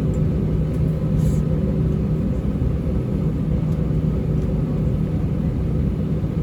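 Steady low rumble with a constant low hum inside the cabin of an Airbus A320-232 on the ground around pushback and engine start.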